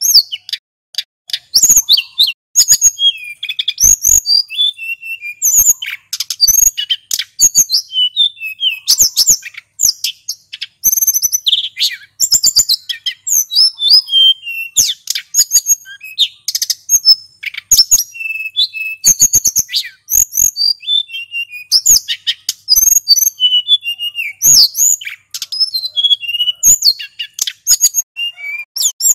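Male sulingan gunung singing a rapid, unbroken song of high chirps, quick whistles and trills, with only brief pauses between phrases.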